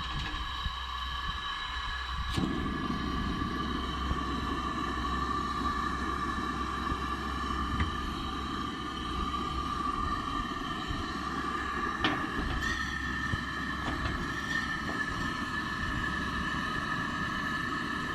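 A motor running steadily: an even high whine over a low rumble, the rumble growing fuller a couple of seconds in.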